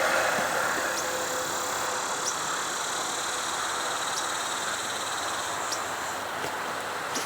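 Rattlesnakes rattling: a steady high buzz that sounds like crickets but louder. It runs over the steady hiss of highway traffic, and a bird gives a few short chirps.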